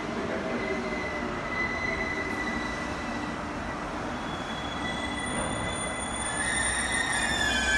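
A train running on the rails below. There is a steady noise of wheels on track, with several thin, high squealing tones that slide slowly down in pitch, and the sound grows louder toward the end.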